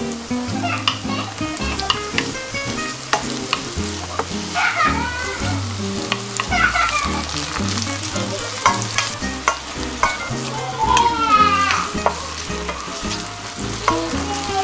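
King oyster mushroom slices and chopped garlic sizzling in oil in a stainless steel frying pan, stirred with a wooden spatula that clicks and scrapes against the pan. High-pitched background voices call out now and then.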